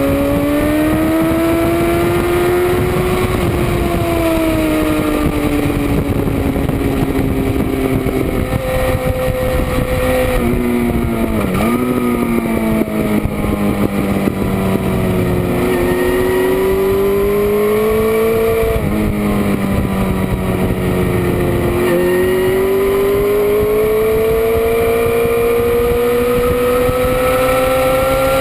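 Sport motorcycle engine running hard around a race track, its pitch climbing slowly under acceleration and sinking as it slows, with two quick sharp dips in pitch partway through, over a constant rush of wind noise.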